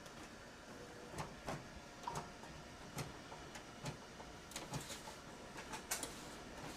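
Small printer working through 4x6 cards fed in by hand one at a time: faint irregular clicks and light knocks from the paper feed and the cards being handled.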